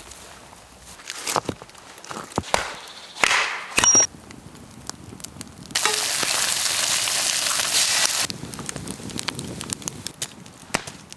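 Campfire crackling with sharp pops and snaps of burning wood. Partway through, a loud steady hiss starts and stops abruptly, lasting about two and a half seconds.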